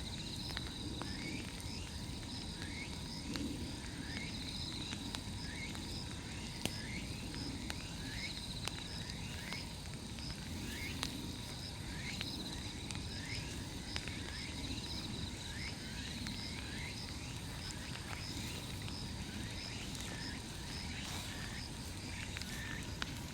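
Night insects chirping in a steady chorus: a short rising chirp repeated about every three-quarters of a second over a continuous high trill. Underneath is the low rush of the burning bonfire, with a few sharp pops from the wood.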